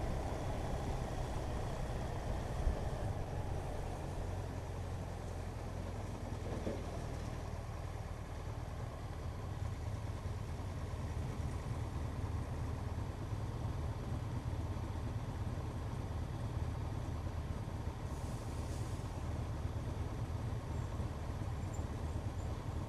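Motorcycle engine running steadily at an even, low pitch, with road noise.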